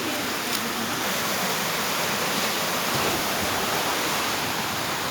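Steady rush of water pouring down a waterfall's smooth rock slide.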